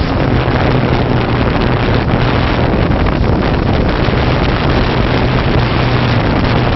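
Multirotor camera drone's propellers and motors running steadily: a constant buzzing hum mixed with rushing wind noise on the microphone.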